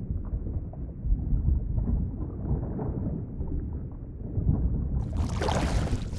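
Underwater ambience: a muffled, low rumbling wash of water. About five seconds in, a brighter hissing water sound sets in.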